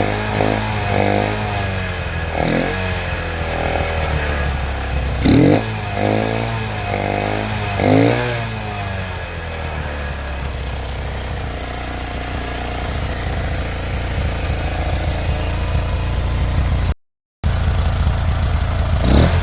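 Bajaj CT 100's single-cylinder four-stroke engine through a modified silencer, revved in a series of quick throttle blips and then settling to a steady idle. The sound cuts out for a moment near the end.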